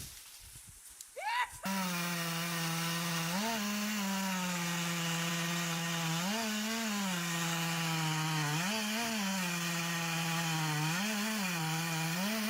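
Chainsaw running at high speed, steady in pitch with a brief rise every two to three seconds, consistent with a saw working through a cut. It comes in suddenly about a second and a half in, after a short quieter stretch.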